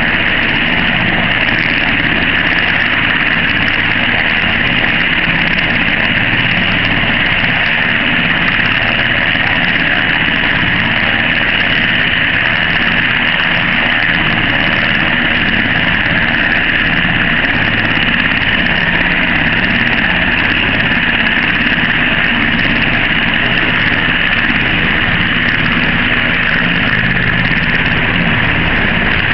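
Steady, loud noise inside the cabin of an MH-60 Jayhawk helicopter: its twin turboshaft engines and rotors running in flight.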